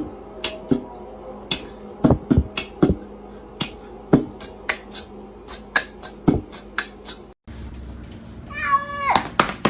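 A domestic cat meows once near the end, a short call falling in pitch. Before it comes a long run of sharp, irregular clicks or taps, a few a second.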